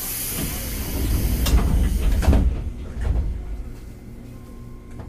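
Air-operated sliding doors of a 205 series commuter train car closing: a hiss of air with a heavy rumble, and thuds about one and a half and two and a half seconds in as the doors shut.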